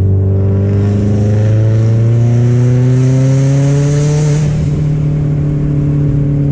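Subaru WRX STI's EJ flat-four with a big turbo, heard through a Tomei catback exhaust, pulling steadily in gear. The pitch rises slowly for about four and a half seconds, then holds at a steady cruise. The owner calls it a metallic, open rasp, with rasp galore, and finds the exhaust a poor match for the big turbo.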